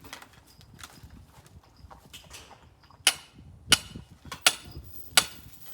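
Firewood being chopped with quick, sharp strikes: four hard wooden knocks about 0.7 seconds apart, starting about three seconds in, each with a short ring, after some faint shuffling.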